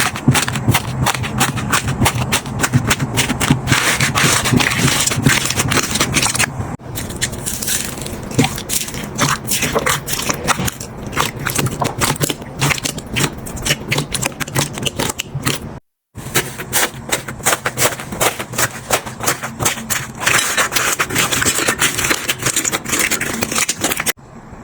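Slime being squeezed and poked by hand, making dense, irregular crackling and popping clicks. The sound cuts out briefly about a third of the way in and again past the middle.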